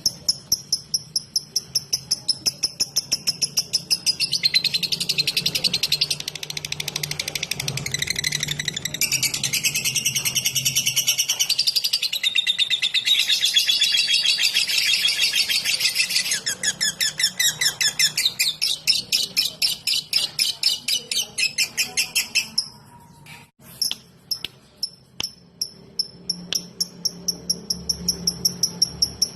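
Lovebird 'ngetik' call: rapid, evenly repeated high ticking chirps, about five a second, swelling into a dense run of trilling chatter through the middle. The ticking breaks off briefly about 23 seconds in, then starts again, over a faint low hum.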